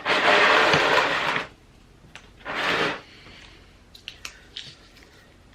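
Handling noise from items being moved on a table: a long rubbing burst about a second and a half long, a shorter one a little later, then a few light taps.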